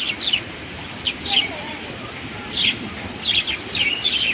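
Small birds chirping: short, high calls coming every second or so over a steady background hiss.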